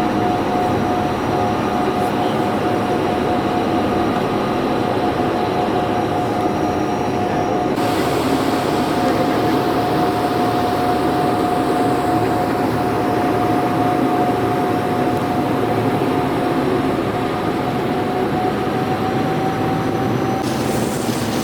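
A steady engine drone with a constant high whine running over it, as heard riding inside a moving vehicle or vessel.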